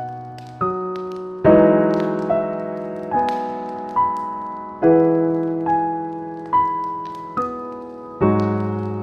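Slow, gentle piano music: notes and chords struck a little more than once a second, each left to ring and fade.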